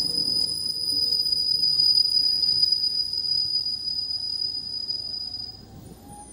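Locomotive-hauled train of E657 series cars slowing to a stop, its wheels and brakes giving a steady high-pitched squeal that cuts off about five and a half seconds in, while the rolling rumble fades away.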